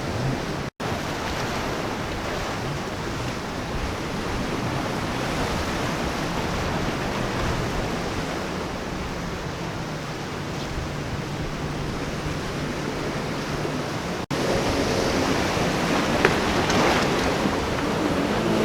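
Steady rush of surf and waves at an ocean inlet, mixed with wind buffeting the microphone. The sound cuts out briefly twice, and after the second break it is a little louder and brighter.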